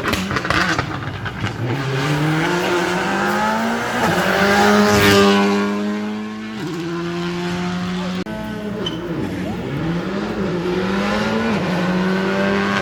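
A rally car at full throttle on a special stage. The engine revs rise and drop sharply with each gear change as the car passes close by, loudest about five seconds in.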